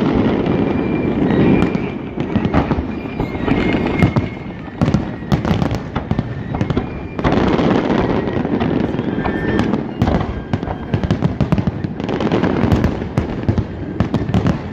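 Aerial fireworks shells bursting in a dense, continuous barrage: overlapping booms with many sharp crackling pops, swelling and easing in waves every few seconds.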